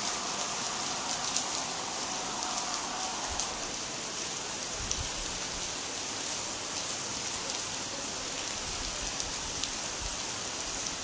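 Steady heavy rain pouring down, a continuous hiss with scattered drop taps.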